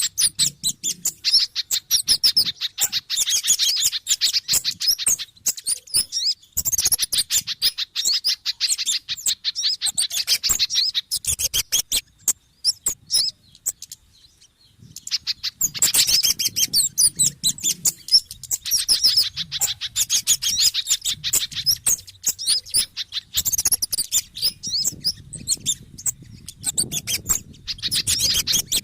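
Bird-lure recording of agitated small-bird calls, kemade mixed with sogon and pijantung (spiderhunter): fast, sharp, high chip notes repeated in dense chattering runs. The calls thin out for a few seconds about halfway through, then start again.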